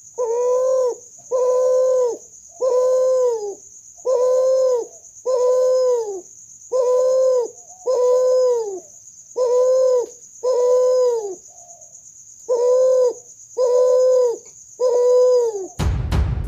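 Kuter, a spotted dove × ringneck dove hybrid, cooing: about a dozen long, even coos, each just under a second and dropping slightly at the end, one after another with short gaps. A steady high whine runs behind them, and music with sharp drum hits comes in suddenly near the end.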